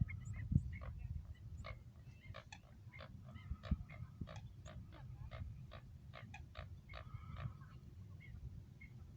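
Large birds giving a run of short, repeated grunting calls, about two or three a second, over a steady low rumble.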